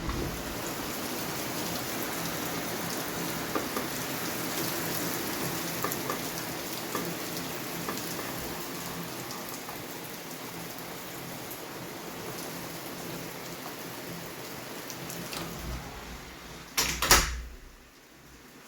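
Heavy rain falling steadily in a downpour. About 17 seconds in there is a short loud knock, and after it the rain sound drops away.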